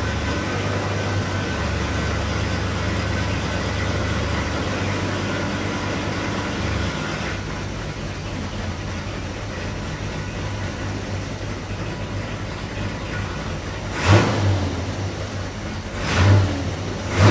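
Chevrolet Corvette C2 Sting Ray's 327 cubic-inch high-performance small-block V8 idling with a steady low rumble, then blipped sharply three times near the end.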